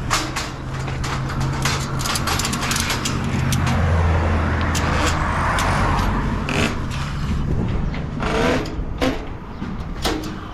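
Truck engine running with a steady low hum that drops in pitch and grows louder about four seconds in, with a noisy swell in the middle and many sharp clicks and rattles throughout.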